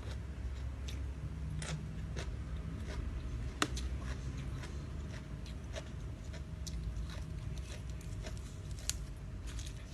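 A person chewing and biting a rice-noodle salad with crispy squid close to the microphone. Scattered crisp crunches and clicks sound over a steady low rumble, with sharper snaps at about four seconds in and again near nine seconds.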